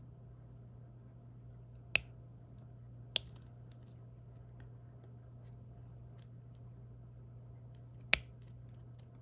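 Small sharp plastic clicks of diamond painting: a stylus tapping as resin drills are picked from the tray and pressed onto the canvas. Three clear clicks, the first about two seconds in, the last near the end, with fainter ticks between, over a steady low hum.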